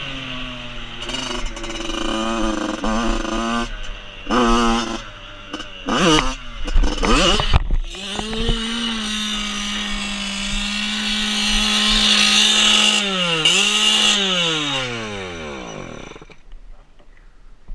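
Small dirt bike engine revving in short blips, then held at steady high revs for several seconds with a buzzing, chainsaw-like pitch. Near the end the revs dip, rise again, then wind down in one long fall until the engine stops.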